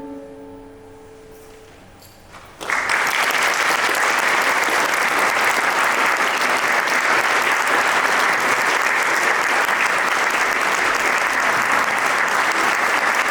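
The last held chord of a song fades out, then an audience breaks into steady applause about two and a half seconds in.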